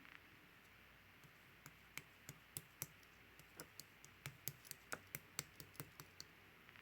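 Marbled mixed slime being pressed and kneaded by hand, giving a run of sharp little clicks and pops from trapped air. They start sparse about a second in and come several a second in the second half.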